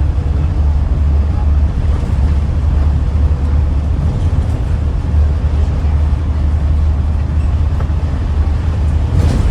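Scania N94UD double-decker bus running steadily under way, heard from inside the passenger saloon: a continuous low engine drone with road and body noise over it.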